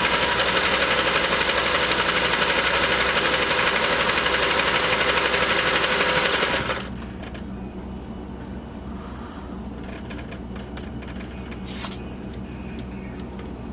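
Vintage Singer top-hat-cam sewing machine running at speed with a fast, even stitching clatter, then stopping about seven seconds in; after that there is a quieter low hum with a few light clicks. It is sewing only a straight stitch because the decorative cam is not properly engaged.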